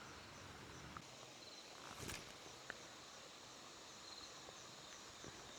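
Near silence with faint insects chirping in a steady repeated trill, and a few small clicks and a short rustle about two seconds in.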